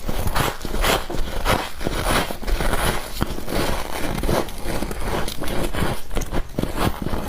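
A person chewing ice close to the microphone: rapid, loud crunching bites, about two or three a second, with no pause.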